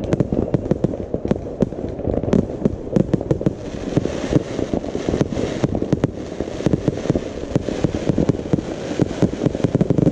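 New Year's fireworks going off in a dense, continuous barrage: many overlapping bangs and cracks, several a second, with no break.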